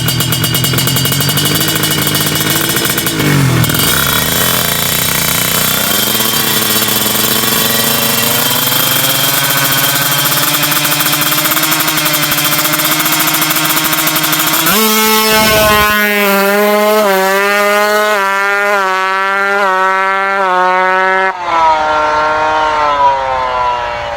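Tuned drag-bike motorcycle engine being revved: the revs dip, then climb slowly. For several seconds it surges up and down in quick repeated throttle blips, then it drops and winds down.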